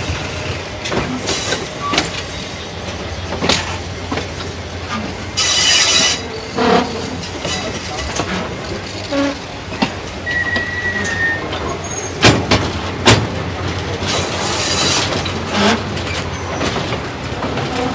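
Passenger train rolling slowly over a wooden trestle viaduct, heard from an open carriage window: a steady low rumble with scattered clanks and knocks from the wheels and couplings. Two brief high wheel squeals come about five seconds in and again near fifteen seconds, and two loud knocks sound a little after twelve and thirteen seconds.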